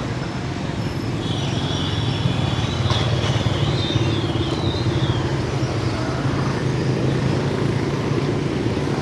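Busy street traffic, mostly motorbike and scooter engines running steadily. A high, wavering squeal is heard from about a second in to about five seconds in.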